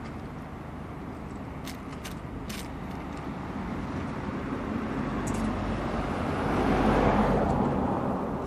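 A motor vehicle passes close by over steady traffic noise, swelling to its loudest about seven seconds in and then fading, with a few faint clicks.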